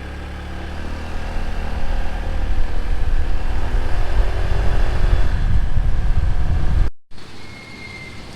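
Motorbike engine running steadily while riding, with wind rumble on the microphone growing stronger about halfway through. The sound cuts off abruptly about seven seconds in.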